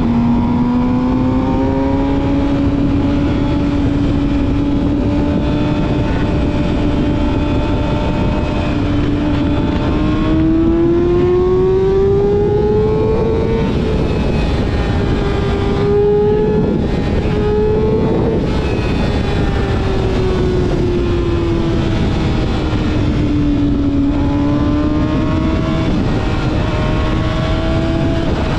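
Yamaha YZF-R6's inline-four engine through a full exhaust system, being ridden: the engine note climbs steadily for about a dozen seconds, breaks briefly a couple of times around the middle, then falls away for several seconds as the bike slows and rises again near the end. Steady wind noise underneath.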